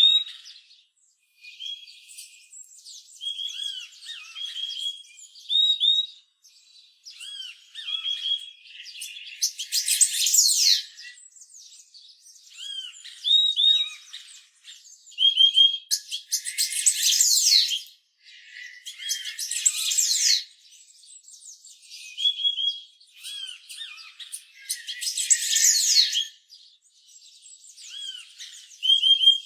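Purple-throated euphonia song: short, clear whistled notes, singly or in quick pairs, repeated every second or so, broken about every five seconds by louder, dense bursts of high chattering song.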